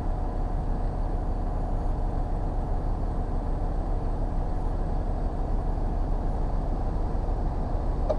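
Lorry's diesel engine running steadily at idle, an even low rumble with no change in speed.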